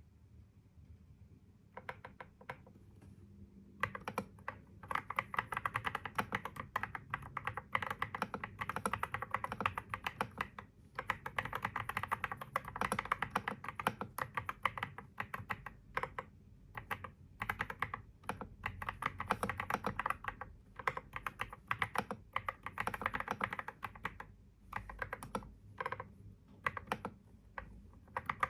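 Typing on a computer keyboard: a few scattered keystrokes at first, then fast, continuous runs of key clicks from about four seconds in, broken by brief pauses.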